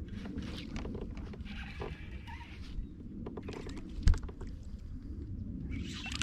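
Hull and water noise aboard a Hobie Pro Angler 14 pedal kayak: a steady low rumble with scattered clicks and knocks from gear on board, and one sharp thump about four seconds in.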